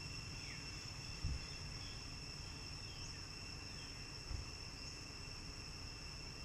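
Steady, high-pitched drone of insects in two even tones, with a few faint short falling chirps. Two brief low thumps, about a second in and again about four seconds in.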